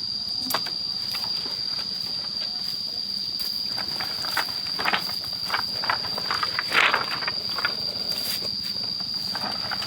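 An insect drones steadily at a single high pitch, with scattered knocks, rustles and footsteps from boards being handled and carried; the loudest knock comes about seven seconds in.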